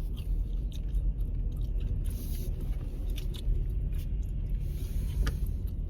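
Gum chewing and smacking close to the microphone, a string of small wet clicks, over the steady low rumble of a car heard from inside the closed cabin.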